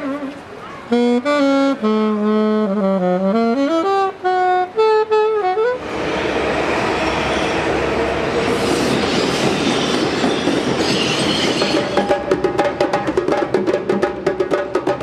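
Saxophone playing a melody, with several held notes. About six seconds in it cuts abruptly to a loud, steady rushing noise. From about twelve seconds in, rapid sharp drum hits take over.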